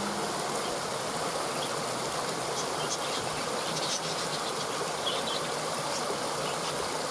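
Steady rush of flowing stream water, with scattered faint high chirps over it from about a second and a half in.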